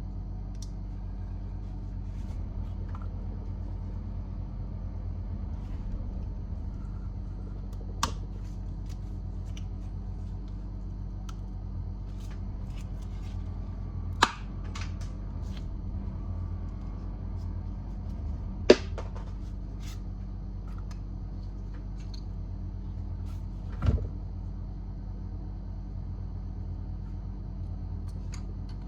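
Four sharp clicks, about 8, 14, 19 and 24 seconds in, with fainter ticks between, over a steady low hum.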